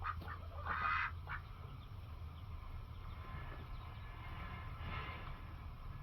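Ducks quacking: a few short quacks in the first second and a half, loudest about a second in, and another burst around five seconds in, over a steady low hum.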